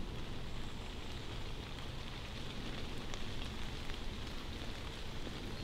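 Steady rain falling in beech woodland, with a few single drips standing out.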